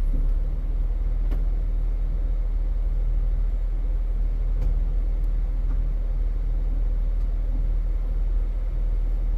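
Steady low rumble of a Jeep's engine idling, with a couple of faint clicks.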